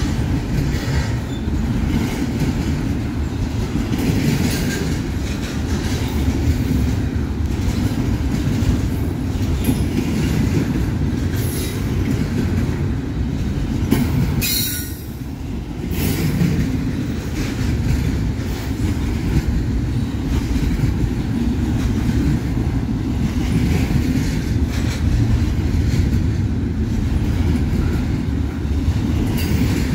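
Double-stack intermodal container freight train passing close by: a steady rumble of the cars with the wheels clicking and clattering on the rails. The sound dips briefly about halfway through.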